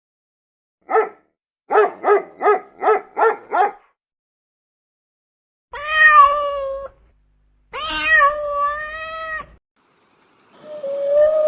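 Domestic cat meowing: a short call, then a quick run of six short meows, then two longer drawn-out meows with a pause between them, and another one starting near the end.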